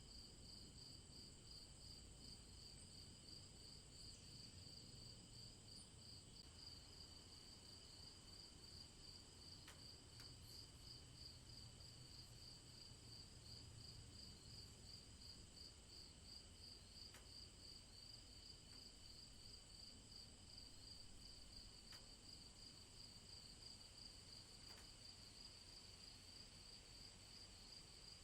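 Near silence with a faint, steady, rapidly pulsing trill of crickets.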